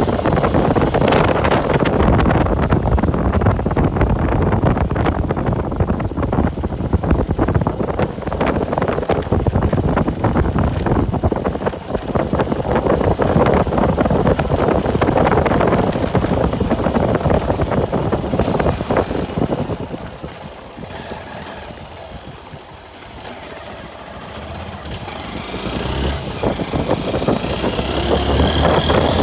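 Motorcycle engine and road and wind noise while riding. It runs steadily, drops off for a few seconds about two-thirds of the way through as the bike slows, then builds again with a rising engine whine as it speeds back up.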